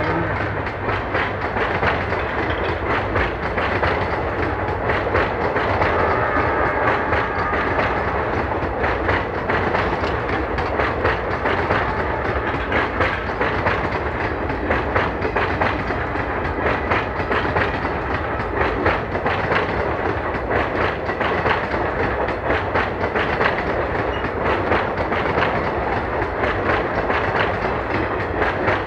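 Indian Railways passenger train coaches rolling steadily past, their wheels clicking rhythmically over the rail joints.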